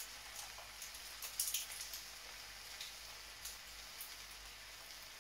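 Diced beef sizzling faintly in a steel wok, with scattered small crackles and a short cluster of light clicks about a second and a half in.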